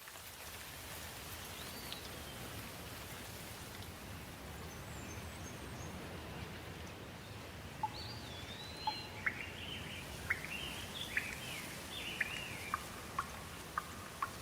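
Steady rain, with a bird calling once about two seconds in and a run of chirping, gliding calls and sharp short notes from about eight seconds on.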